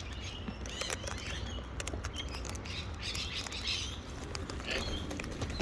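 Wild parrots chattering and chirping in short bursts, with scattered sharp clicks and wing flutters throughout.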